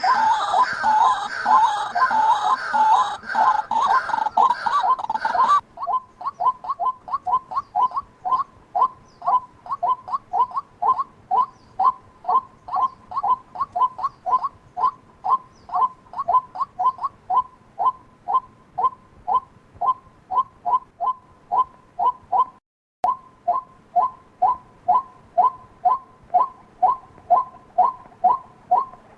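White-breasted waterhen calling: for the first five seconds a dense, harsh run of calls, then a monotonous string of short, even notes repeated about two to three times a second. There is a brief break a little before the end.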